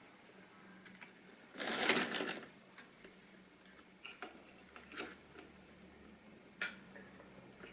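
Model railway train running on its track: a faint steady hum with a few scattered sharp clicks, and a louder rustling noise about two seconds in.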